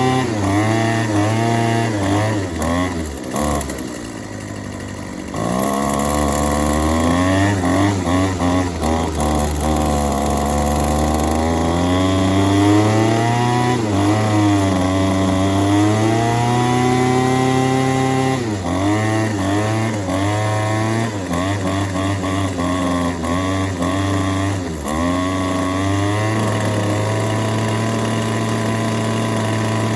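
Yardworks 25cc two-stroke string trimmer engine running on its new carburetor, revved up and down over and over with the throttle while the carburetor's jets are being adjusted. It drops lower and quieter briefly about four seconds in, and holds a steady speed over the last few seconds.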